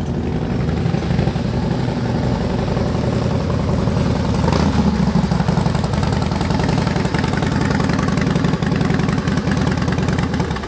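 Harley-Davidson motorcycle's V-twin engine idling steadily, with a brief lift in the middle, then dying away at the end.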